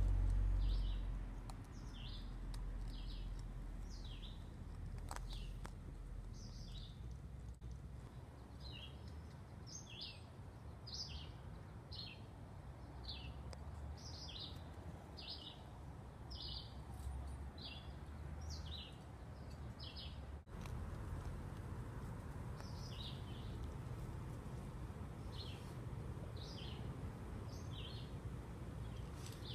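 A songbird chirping over and over: short high notes sliding downward, one or two a second, with a few short pauses. A brief low rumble comes at the very start.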